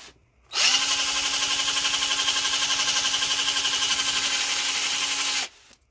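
Electric drill spinning up about half a second in and running at a steady pitch for about five seconds while drilling something out, then stopping abruptly.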